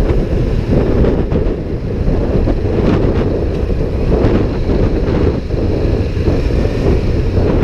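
Wind buffeting the microphone of a moving motorcycle: a loud, steady low rush.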